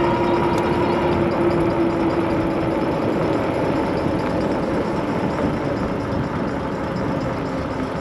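Wind and road noise from riding an electric bike, with a steady whine that fades out over the first few seconds.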